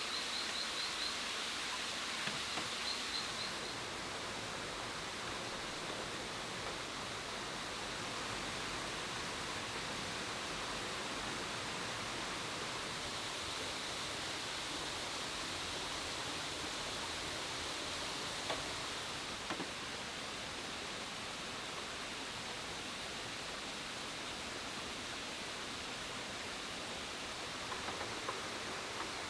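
Steady outdoor background hiss, with a rapid high ticking trill in the first few seconds and a few faint knocks later on.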